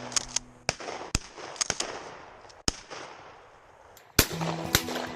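Shotguns firing at a flushing rooster pheasant: a string of sharp cracks, the loudest about four seconds in. Background music drops out early and comes back near the end.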